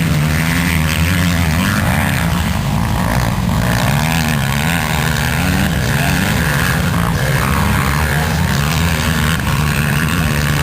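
Motocross motorcycle engines running, a steady drone whose pitch wavers gently up and down.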